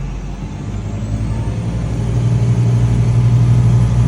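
Sailboat's inboard engine running hard at high revs, near its red line, with a steady droning hum that grows louder about halfway through.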